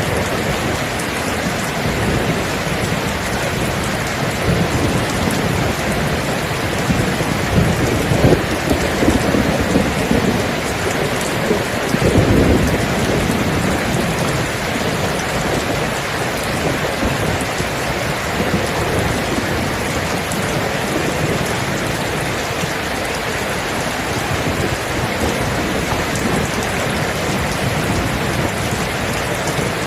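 Steady heavy rain with a low rolling rumble of thunder that builds from about seven seconds in and is loudest about twelve seconds in, then fades back under the rain.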